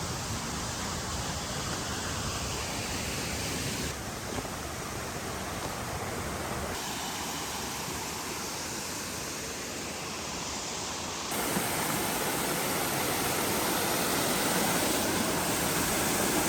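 Rushing water of a mountain stream or waterfall, a steady full rush that shifts abruptly in level a few times and is loudest in the last few seconds.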